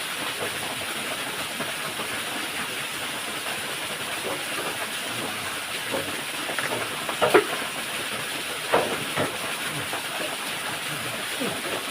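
Steady rushing of a waterfall, with a few sharp knocks over it in the second half, the loudest about seven seconds in.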